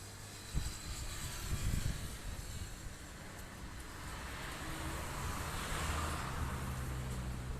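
Strong gusting wind rumbling on the microphone, with a rushing noise that swells and eases off about six seconds in.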